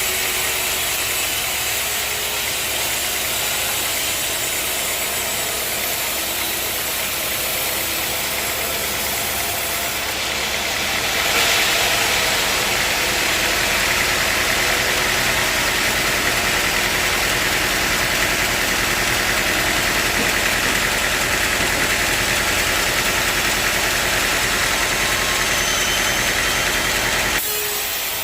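Sawmill machinery running with a steady engine-like hum. About a third of the way in, a louder hissing noise sets in and holds, then drops away suddenly near the end.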